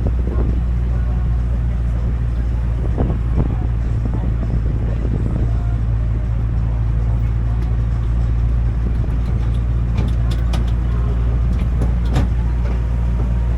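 Vehicle engine running steadily with a low, even hum, likely the tourist road train. A few short knocks or rattles come about three seconds in and again near the end.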